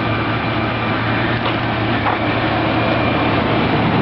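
Pickup truck's engine idling, a steady low hum under an even rumble of running noise.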